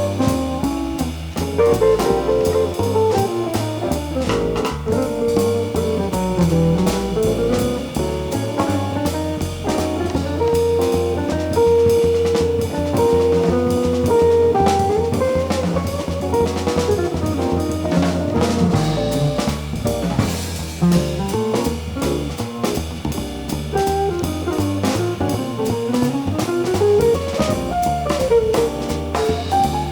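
Live jazz combo playing. A guitar carries a single-note melody line that runs up and down, over a bass line and a drum kit with steady cymbal strokes.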